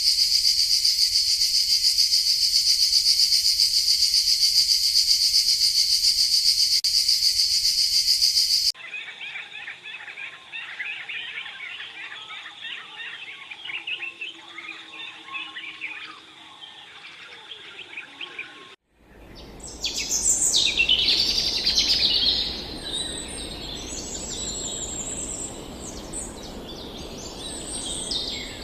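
Nature ambience changing abruptly twice: first a loud, steady, high-pitched hiss or buzz for about eight seconds, then a busy chorus of small bird chirps, and from about nineteen seconds in, louder bird calls with quick rising and falling whistles.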